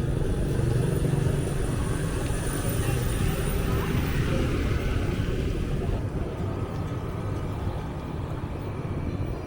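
Street traffic noise with a motor engine running close by for the first few seconds, then easing off, with people's voices mixed in.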